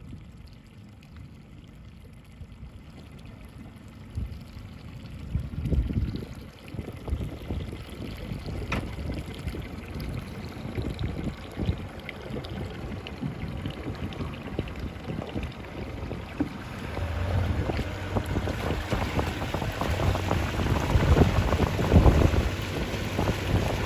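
Wind buffeting the microphone over water rushing past a sailing boat, quiet at first, then building from about four seconds in and loudest near the end.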